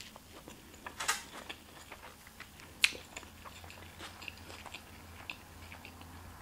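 Close-miked chewing of shrimp fried rice: soft wet mouth clicks and smacks, with a couple of sharper clicks about a second in and just under three seconds in.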